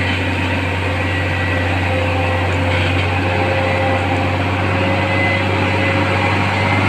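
Heavy truck engine running steadily, a low even drone with a faint higher whine above it.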